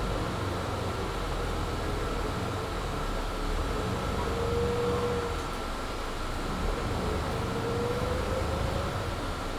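Interior of a Mercedes-Benz Citaro C2 G articulated bus under way: steady engine and driveline rumble, with a whine that rises in pitch twice, about four and eight seconds in. Over it runs a steady high-pitched tone, typical of the bus's loud heater.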